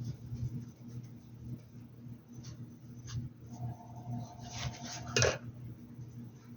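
Painting tools being handled: light taps, rubbing and small clinks against hard containers, with one sharper clink about five seconds in, over a steady low hum.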